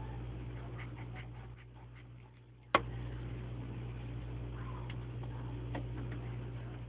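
Faint scratching and light ticks of a pencil working on paper over a steady low electrical hum, with one sharp click about three seconds in.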